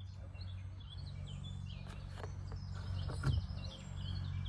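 Birds chirping in short calls over a steady low background hum, with a few soft clicks.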